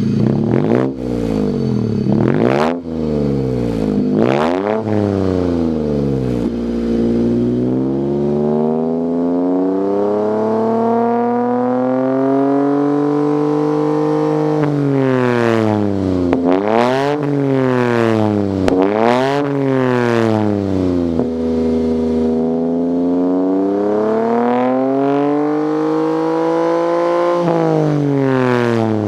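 Lexus LBX Morizo RR's turbocharged three-cylinder engine heard through a Kakimoto-R aftermarket muffler, revved repeatedly. Several quick blips, a slow climb held for a few seconds, about four more sharp blips, then another slow rise that falls back near the end.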